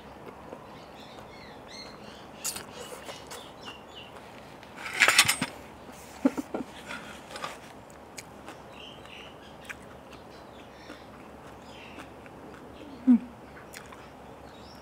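Close-up eating sounds of chewing and slurping a spicy salad of rice noodles and blood cockles, with a louder burst of mouth noise about five seconds in. Small birds chirp faintly in the background.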